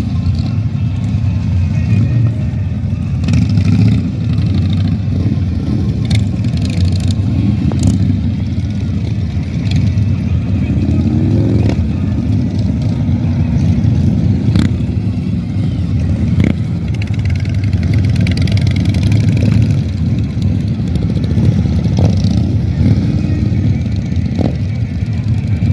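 Motorcycle engines running in a steady, dense low rumble as bikes ride slowly past, with one engine revving up about ten seconds in.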